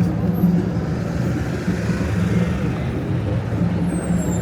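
Street traffic noise with a vehicle engine running close by: a steady low hum under a general city roar.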